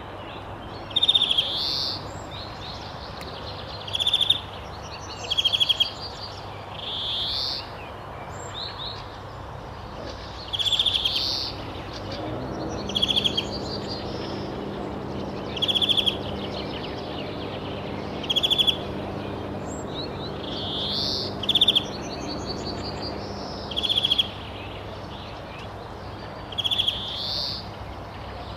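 Wild birds calling repeatedly, a short rapid trill or an upward-swooping call every one to three seconds, over a steady outdoor hiss.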